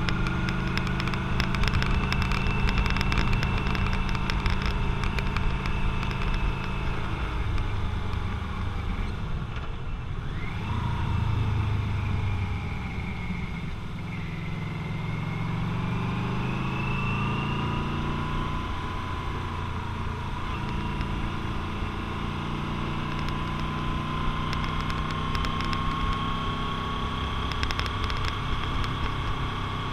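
Motorcycle engine running under way, its pitch dropping and climbing again several times with throttle and gear changes, over a steady rush of wind noise.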